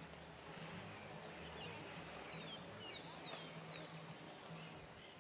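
Wild birds calling over faint outdoor background: a few quick falling whistles, three clear ones close together about three seconds in.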